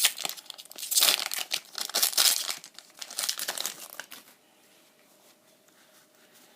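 Foil Pokémon booster pack wrapper crinkling and being torn open for about four seconds, then near quiet with a faint hum.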